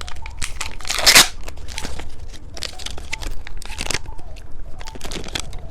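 Close-miked eating of a two-colour cheese-stick candy: crunchy bites and wet chewing clicks, with two louder crunches about a second in and just before four seconds.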